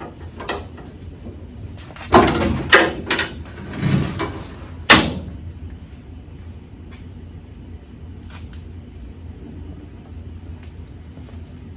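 A quick run of clanks and knocks from hand tools and truck parts being handled, loudest about five seconds in, over a steady low hum.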